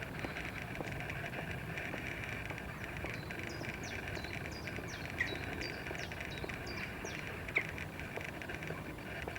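Small birds chirping: a quick series of short, high, falling chirps through the middle, with a couple of louder single calls, over a steady background hiss.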